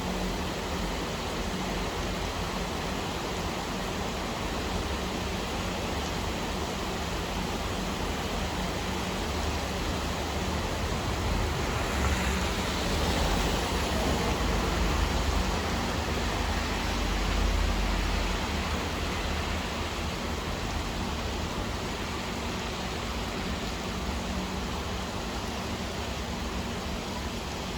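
Steady rain falling, an even hiss that swells somewhat louder, with a deeper low rumble, about halfway through before settling back.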